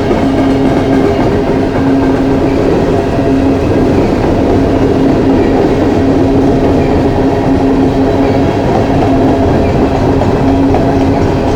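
Long loaded coal train's cars rolling steadily past, a loud continuous rumble with a held hum.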